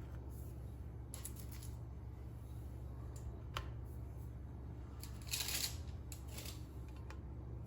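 Light kitchen handling sounds during pastry preparation: a few soft clicks and a brief rustle about five seconds in, over a steady low hum.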